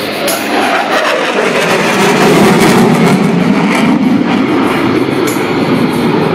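Loud jet noise from a Boeing F/A-18 Super Hornet's twin F414 turbofan engines as it makes its pass for the carrier break. The roar swells and drops in pitch over the first few seconds, then runs on loud and steady.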